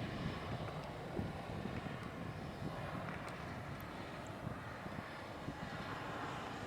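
Airbus A320's CFM56 turbofan engines running at a distance, a steady rumble with a faint whine that grows a little louder near the end.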